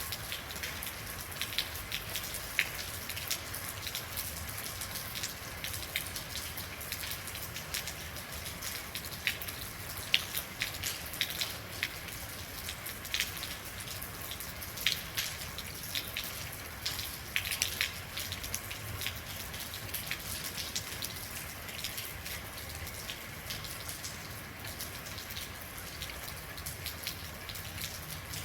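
Steady rain, with a continuous hiss and many irregular sharp drops ticking on a surface close by.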